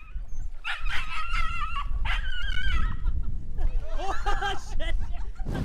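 A dog whining: two long, wavering high-pitched cries, then several shorter, lower yelps near the end, over a steady low rumble.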